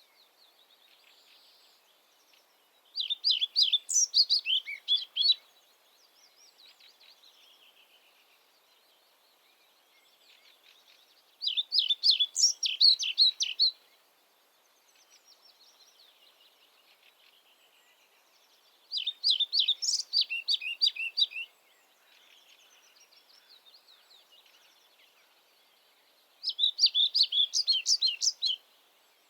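A songbird singing the same short, rapid song phrase four times, about every eight seconds, with fainter songs of other birds between the phrases.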